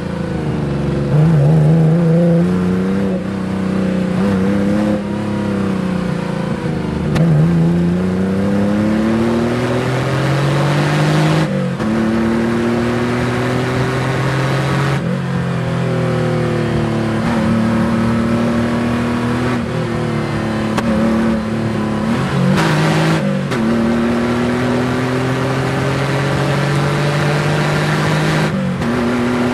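Porsche 911 flat-six engine driven hard. Its pitch climbs under acceleration and falls as it slows, with a sudden break and drop at each of several gear changes.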